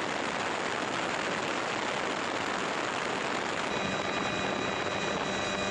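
Steady rushing noise of an aircraft in flight; about three and a half seconds in, a steady engine whine joins it.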